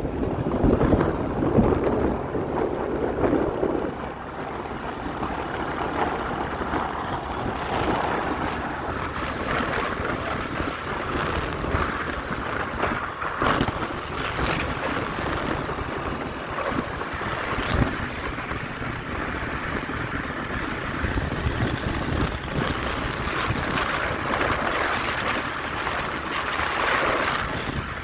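Motorcycle on the move: wind rushing over the microphone with engine and road noise beneath it.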